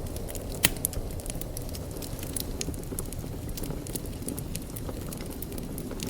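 Wood fire burning in a fireplace: a steady low rumble of flames with frequent small crackles and pops, one sharper pop about two-thirds of a second in.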